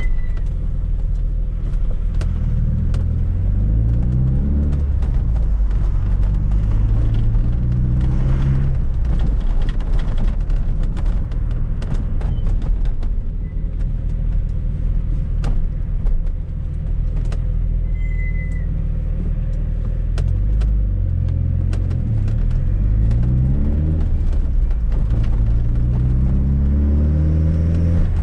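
Fiat Coupe 16V Turbo's turbocharged four-cylinder engine under way, its pitch climbing in several runs through the gears with a drop at each shift. Sharp clicks and rattles come through now and then.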